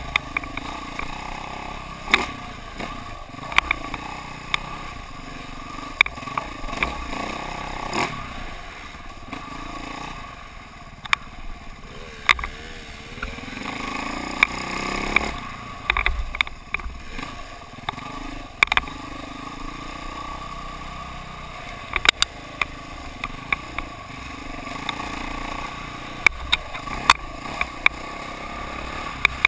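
KTM dirt bike engine running, with sharp knocks and clatter scattered throughout and the engine rising in pitch about halfway through.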